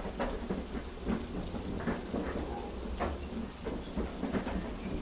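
Steady heavy rain over a constant low rumble, with a few faint, irregular taps.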